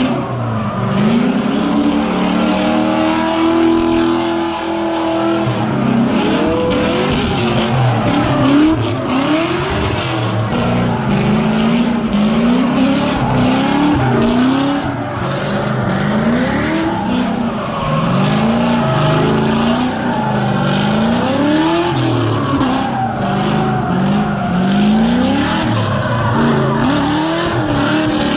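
Car engine revving up and down over and over, held high for a couple of seconds early on, with tires squealing and skidding in a burnout.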